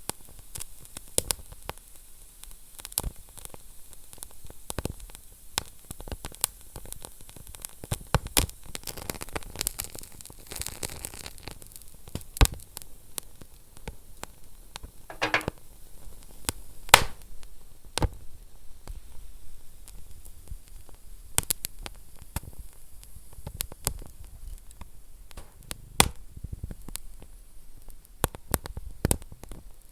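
Wood fire burning in a fireplace: a soft steady hiss with irregular sharp crackles and pops, some much louder than others. There is a brief thin whistle about halfway through.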